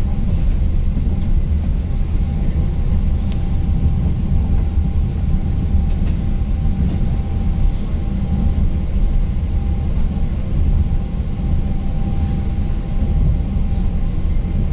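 Interior running noise of an ŁKA 36WED (Newag Impuls) electric multiple unit travelling at speed: a steady low rumble from wheels and track with a faint steady whine above it.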